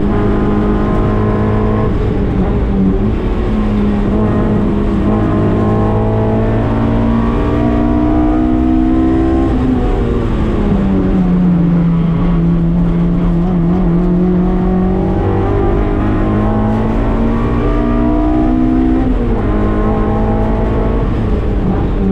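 Honda K24 four-cylinder engine in a Mazda MX-5 Miata driven hard on track: the engine note climbs under acceleration for about nine seconds, drops sharply as the driver lifts and brakes, holds low for a few seconds, then climbs again and drops once more near the end, over steady road and wind noise.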